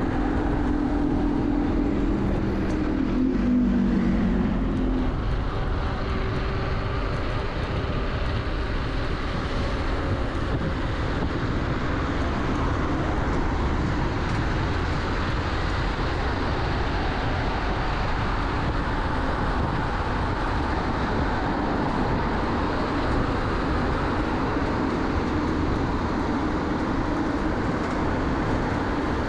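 Steady rush of wind and road noise from riding a bicycle along a busy road, with traffic around. A whining tone falls in pitch over the first five seconds.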